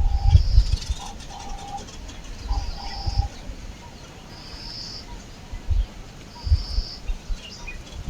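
Birds calling outdoors: a short, steady high note repeats about every two seconds, with a few shorter, lower notes in the first three seconds. Low rumbling thumps run underneath.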